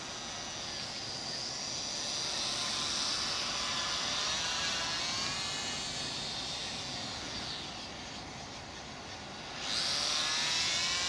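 Small electric RC plane's brushed gearbox motor and propeller whining high in flight, the pitch wavering and the sound swelling and fading as it flies around; it drops away about eight seconds in, then comes back suddenly louder near the end.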